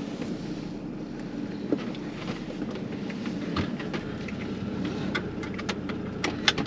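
A van's engine running steadily, with a scatter of sharp clicks and taps, the loudest two near the end.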